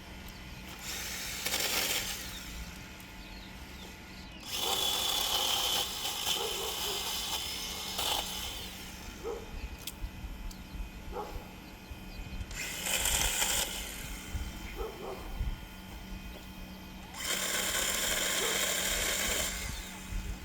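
Electric chainsaw running in four bursts of one to three seconds each, with a steady whine in each run.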